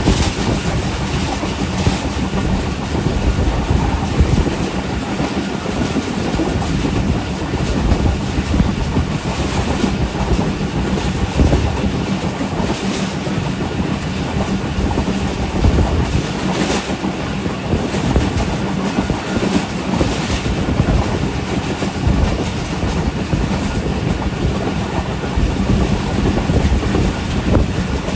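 Passenger coach of a moving train, heard from its open door: steady rumbling and rushing running noise of the wheels on the track, with occasional knocks as the wheels pass over rail joints.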